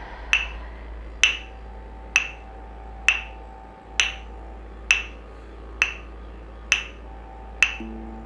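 A steady, sharp tick, like a snap or wood-block click, sounding about once every 0.9 seconds, nine times in all, as a slow pulse in soft background music with held tones. Near the end a low repeating note comes in.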